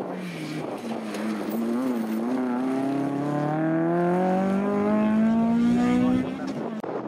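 Hatchback hillclimb car accelerating hard up the course, its engine note climbing steadily in pitch for several seconds, then falling away suddenly near the end.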